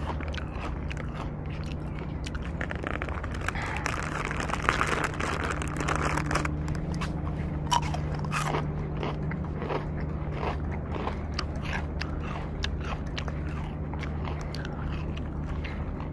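A person chewing crunchy food close to the microphone: a steady run of crunches and small clicks over a low, steady hum.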